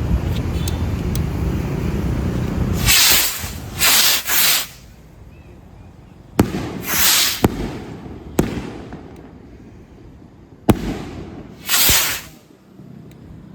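Eagle Fireworks 'Eye Of The Eagle' firework being test-fired: a run of short hissing rushes and three sharp bangs spaced a second or two apart, after a few seconds of low rumbling noise.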